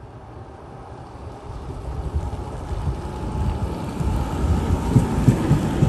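Passenger train approaching, its low rumble building steadily louder, with a run of wheel thumps from the rail joints starting near the end.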